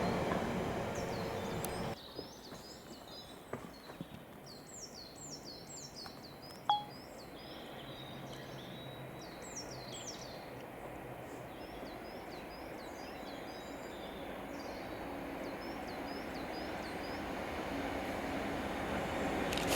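Small birds singing: many short, high, falling chirps repeated over a quiet background, after a passing train's sound drops away about two seconds in. A single short beep with a click sounds once, about seven seconds in.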